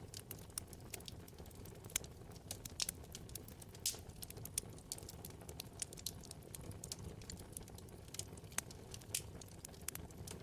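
Wood fire burning in a fireplace: irregular sharp crackles and pops, several a second, over a soft steady rumble of the flames.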